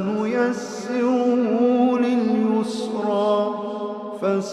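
A man's voice chanting Quran recitation in a melodic style, holding long drawn-out notes whose pitch bends slowly up and down, with a brief break near the end.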